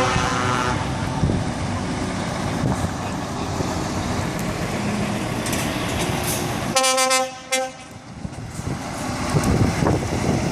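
Truck air horn sounding at the start, then a second, stronger blast of about a second some seven seconds in. Between the blasts there is the steady rumble of lorry engines driving past.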